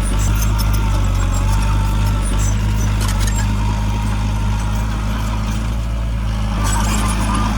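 Diesel engine of heavy earthmoving machinery running steadily, with scattered light metallic clicks over it.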